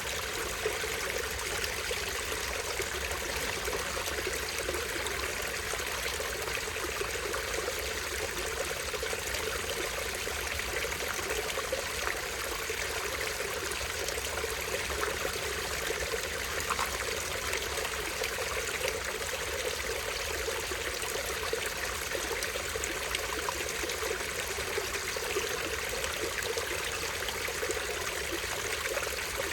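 Small stream running steadily, water trickling and splashing over a tiny waterfall in an even, unbroken rush.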